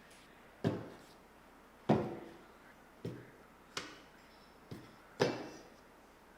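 Six sharp knocks of hard objects set down or struck, irregularly spaced about a second apart, each dying away with a short ring.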